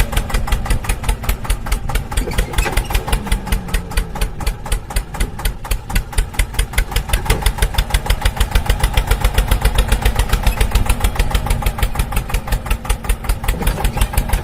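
An engine idling with a steady chugging beat of about five to six pulses a second.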